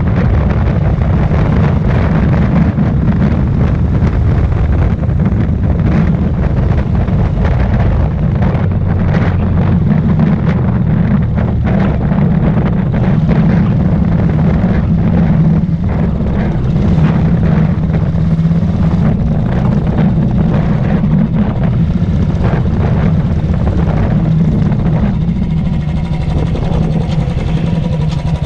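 Royal Enfield Thunderbird's single-cylinder engine running steadily as the motorcycle rides along, with wind rushing over the microphone; the sound eases off near the end.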